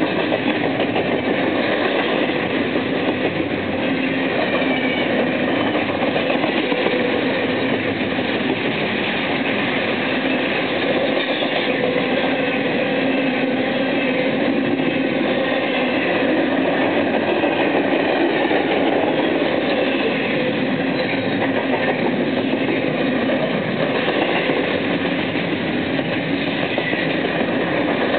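BNSF freight train rolling past without stopping: a steady, loud rumble and clatter of freight-car wheels on the rails that keeps on without a break.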